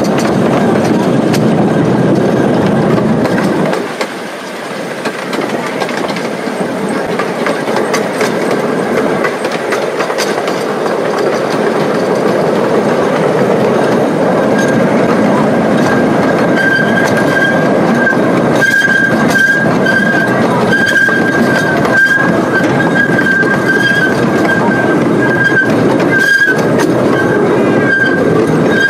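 Ride-on train running along its track, heard from on board: a steady rumble of wheels on rail with scattered clicks. It eases briefly about four seconds in, and a steady high-pitched squeal joins about halfway through.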